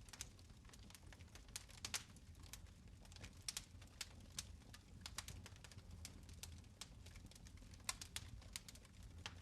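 Fire crackling in a fireplace: faint, irregular snaps and pops, a few sharper ones about two seconds in and near the end, over a steady low rumble.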